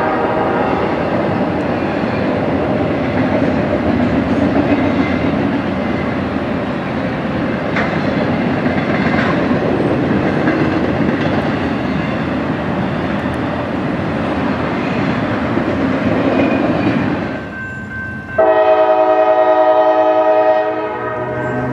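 A train rolling past close by, its wheels making a steady rumble on the rails. A locomotive horn chord is just ending as it starts, and near the end the horn sounds again in one loud blast of about two seconds.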